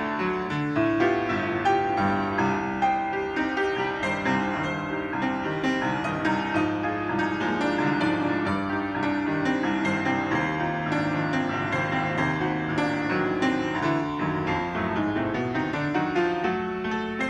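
Piano playing, note after note, with no pause.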